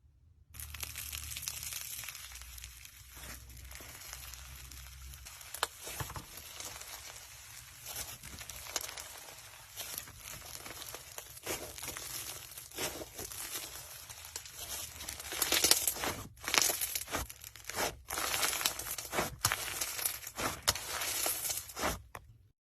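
Slime being squeezed and pressed by hand, with a dense crackle of small sticky pops. The pops get louder and sharper about two-thirds of the way through, then the sound cuts off suddenly near the end.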